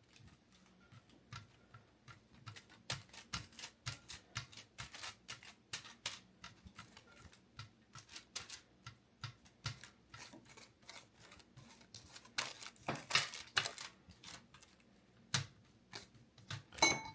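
Faint, irregular light taps and clicks of a utensil pressing and spreading a chicken pizza-crust mixture on parchment paper, a few a second, a little louder about thirteen seconds in.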